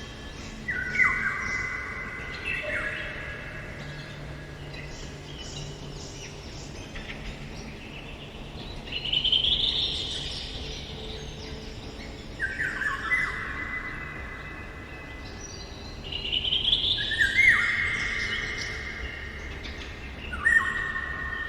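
Eurasian golden oriole singing, with phrases of several notes every few seconds and other birds chirping faintly behind.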